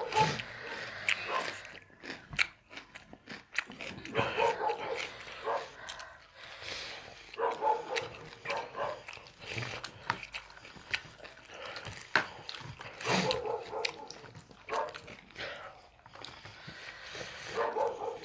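A dog eating, with many small chewing clicks and short vocal sounds every few seconds.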